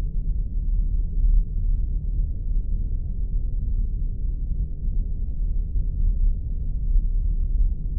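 Spaceship sound effect: a steady, deep rumbling drone with a faint thin hum above it.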